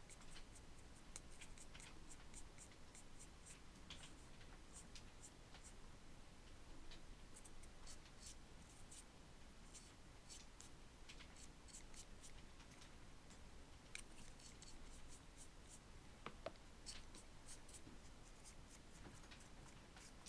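Faint scratchy strokes of a hand tool working on a craft surface, coming in quick runs, with a few light clicks scattered through.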